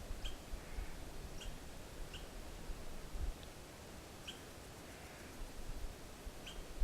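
Short, high chirping calls from a small animal or bird, repeated about every second, seven times in all.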